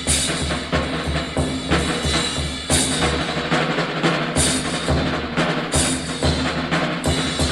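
Live 1940s bebop small-group jazz with the drum kit to the fore: bass drum kicks and cymbal crashes over the band, four crashes standing out across the stretch.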